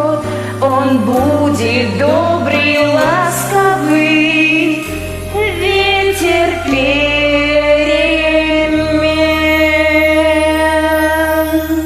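A voice sings wordless, ornamented runs over a karaoke backing track, then holds one long final note with vibrato that stops near the end.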